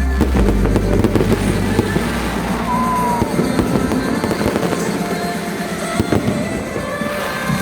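Aerial fireworks bursting and crackling in quick succession over loud music, with one sharper bang about six seconds in.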